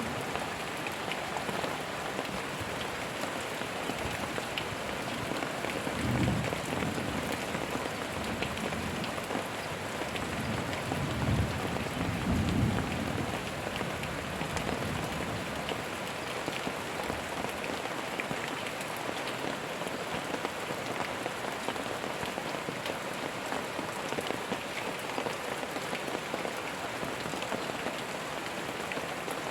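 Steady rain falling, with two low thunder rumbles, one about six seconds in and a longer one about eleven to thirteen seconds in.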